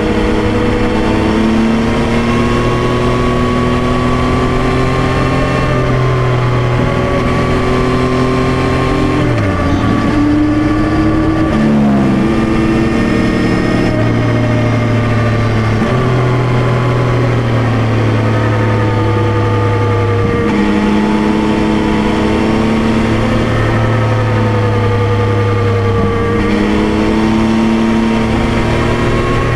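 Yamaha Tracer 9's 890 cc three-cylinder engine heard on board while riding, its note holding fairly steady and drifting gently up and down. There is a dip and a quick rise in pitch about ten seconds in, and abrupt shifts near sixteen and twenty seconds.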